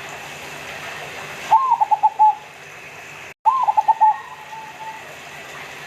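Local zebra dove (perkutut) cooing: two song phrases about two seconds apart, each opening with a rising note and then a rapid run of short, clipped coos. A brief dead-silent gap in the recording comes just before the second phrase.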